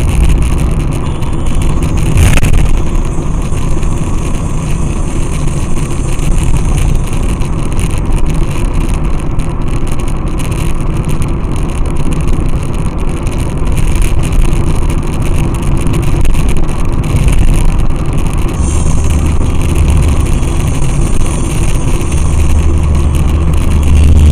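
Steady engine and road noise of a moving vehicle, with a single sharp click about two seconds in and a deeper low hum coming in near the end.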